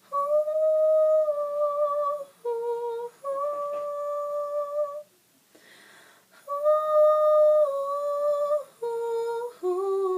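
A young woman humming a wordless melody a cappella: a few long, steady held notes with short breaks between them, and a pause of about a second and a half near the middle.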